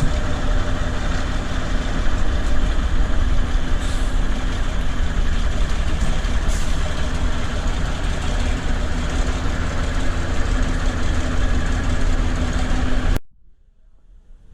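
Large truck engine idling steadily, with a low rumble and a steady hum; it cuts off suddenly near the end.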